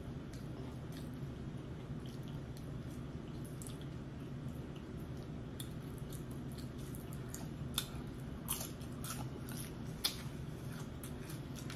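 Close-miked chewing of a mouthful of creamy shrimp and crab dip: soft, wet mouth clicks and smacks over a steady low hum, with a few sharper smacks between about eight and ten seconds in.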